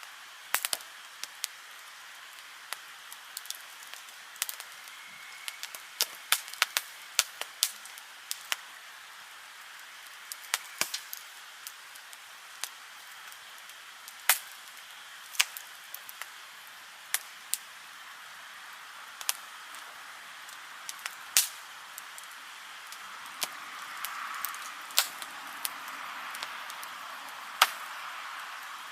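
Wood fire crackling: irregular sharp pops and snaps over a steady hiss, the hiss growing a little louder about three quarters of the way through.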